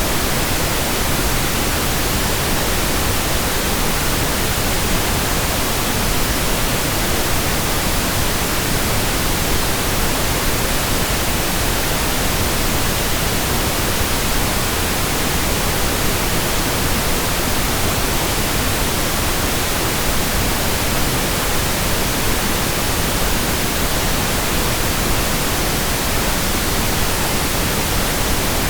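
Pink noise: a steady, even hiss with no change in level.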